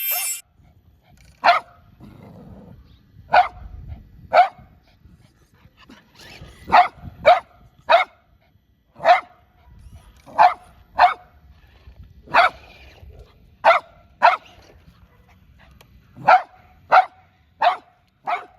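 A dog barking, short sharp barks at irregular intervals, singly and in quick pairs, about sixteen in all, over a faint low rumble.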